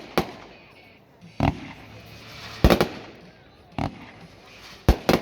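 World Class Polar Attack firework cake firing: a sharp report about every second, some in quick pairs, each with a short echoing tail.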